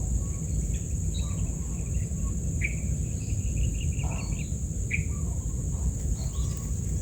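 Small birds chirping and twittering, with a quick trill in the first half and a few sharp single chirps. Behind them runs a steady high-pitched insect drone and a low rumble.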